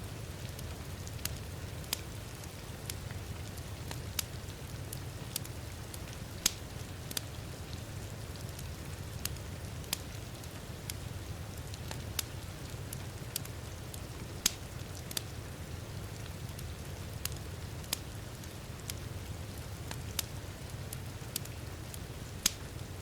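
Steady rain mixed with a wood fire crackling. The rain is an even, continuous wash. The fire adds sharp, irregular pops, about one or two a second.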